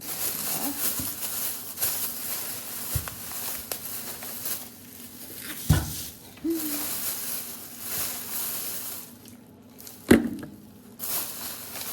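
Rustling of bags and packaging as purchases are handled, with a sharp knock a little before six seconds in and another about ten seconds in.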